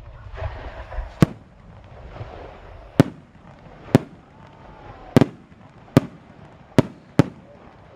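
Homemade fireworks going off: seven sharp bangs at irregular intervals, some close together in pairs.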